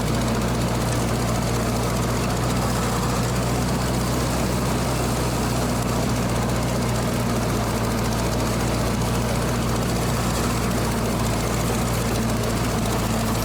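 Ford 8N tractor's four-cylinder flathead petrol engine running at a steady speed under load while cutting through dense vegetation in third gear, a constant low drone with no change in pitch.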